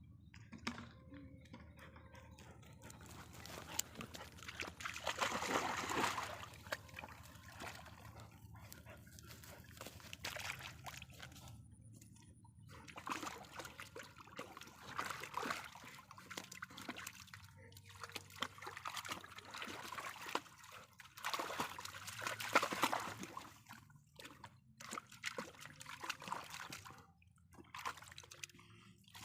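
Water sloshing and trickling in irregular bursts, with two louder swells.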